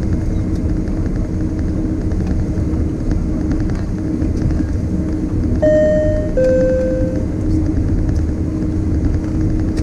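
Steady engine and air-conditioning noise inside the cabin of a Boeing 767-300ER on the ground before takeoff. About five and a half seconds in, the two-note high-low cabin chime sounds once.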